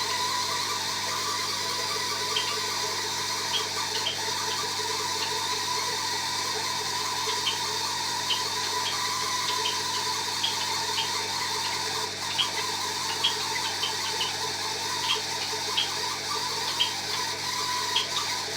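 Bosch Maxx 5 front-loading washing machine running with a steady whine, with short light ticks every second or so.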